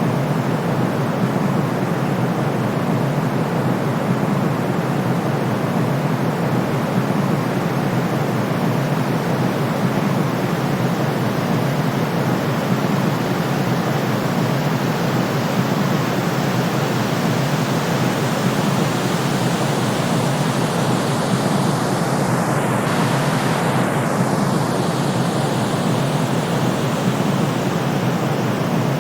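Steady sleep white noise: an even, unbroken hiss weighted toward the low end, closer to pink noise than flat white. About three-quarters of the way through, the top end briefly shifts with a faint swish.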